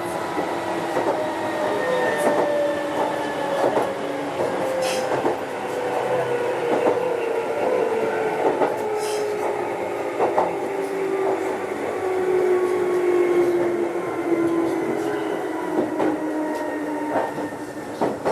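Meitetsu 6900-series electric train running on the rails, its motor and gear whine falling steadily in pitch as the train slows, with wheels clicking over rail joints.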